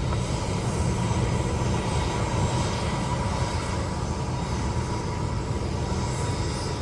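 Jet airliner engines making a steady low rumble with a faint steady whine, typical of an airliner at takeoff power on the runway.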